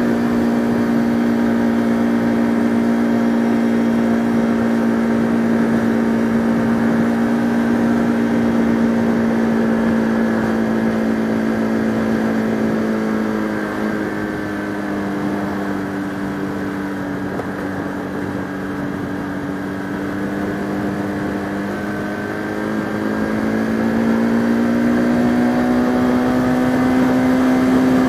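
A Bajaj Pulsar RS200's single-cylinder engine running at a steady cruise. About halfway through the revs drop and the note falls a little and goes quieter, then the engine pulls up again near the end.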